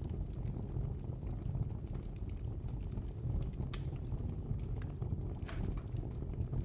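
Wood fire burning in a fireplace: a steady low rumble with scattered sharp crackles and pops, a couple of them louder in the second half.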